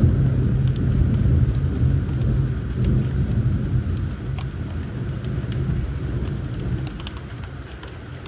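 Thunder rumbling, starting suddenly and fading slowly over several seconds, over steady rain with scattered drips.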